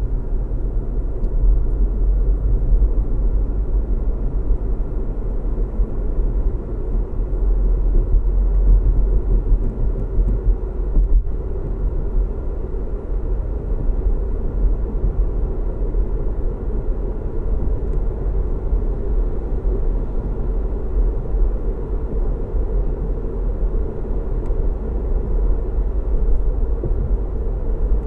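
Car driving at steady speed, heard as a low, steady road rumble of tyres and engine with little change.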